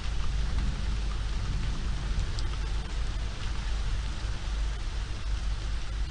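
Steady rain falling in a city street, with a few faint drip ticks and a constant deep rumble underneath.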